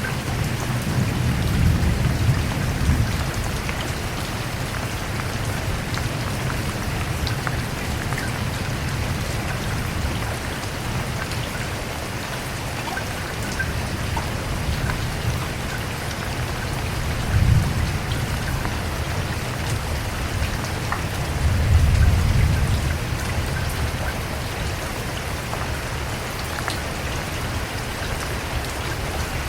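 Steady rain falling on a surface, with pattering drops, and low rumbles of thunder swelling up about two seconds in, briefly at about seventeen seconds, and again a little after twenty seconds.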